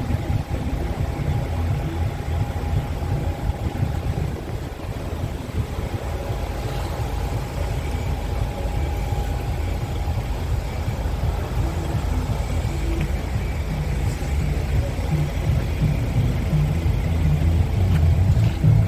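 Scania R truck's diesel engine running steadily, probably at idle, with a faint steady whine above the low engine note; it gets slightly louder near the end.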